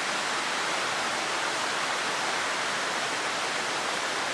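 Steady rush of water flowing over an old dam, an even unbroken hiss.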